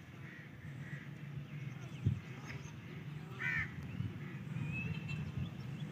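A short bird call about three and a half seconds in, over a steady low background hum.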